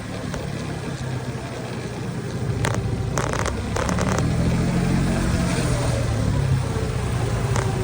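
Road traffic noise with a low engine hum that grows louder about halfway through, and a few short clicks between three and four seconds in.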